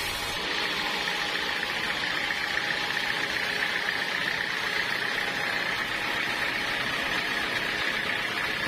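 Sawmill machinery running steadily at idle, with a steady high whine over a noisy hum.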